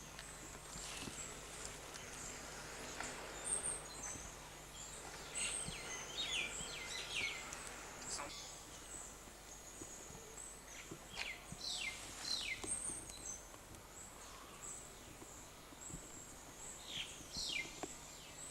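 Birds calling: short downward-sliding chirps come in small clusters, over a thin, high, steady twittering.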